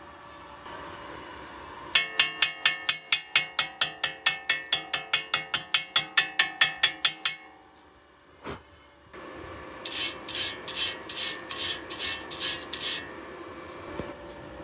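Rhythmic rasping strokes, about four a second for five seconds. After a pause and a single knock, a second, hissier run of about eight slower strokes follows.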